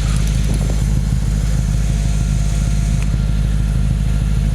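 2004 Audi S4's 4.2-litre V8 idling steadily through an aftermarket exhaust: Milltek downpipes and a catless LaBree catback.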